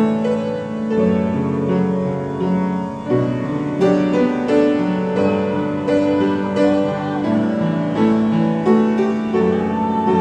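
Piano playing held chords under a melody, notes changing every half second or so.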